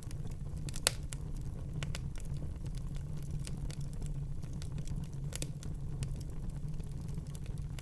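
Wood fire burning in a fireplace: a steady low rumble of the flames with scattered crackles and pops, a sharper pop about a second in and another about five seconds in.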